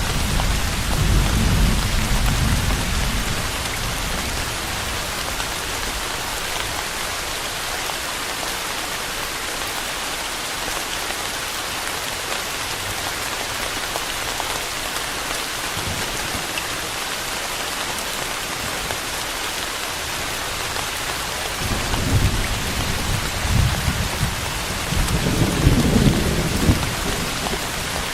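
Steady rain falling on a surface, with low thunder rumbling in the first few seconds and again in long swells near the end.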